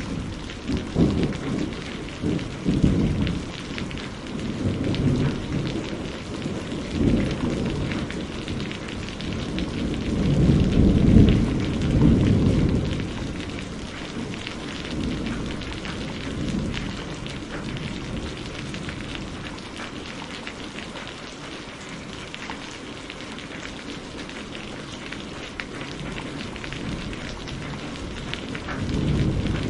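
Steady rain pattering with deep rolling thunder. The rumbles swell to their loudest about a third of the way in, die away to leave only the rain, then build again near the end.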